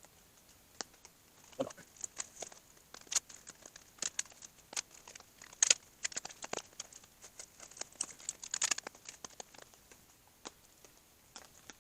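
Plastic knife packaging crinkling and crackling as it is cut and pried open with another knife: irregular clicks and crackles, with denser crinkling about halfway through and again about two-thirds through.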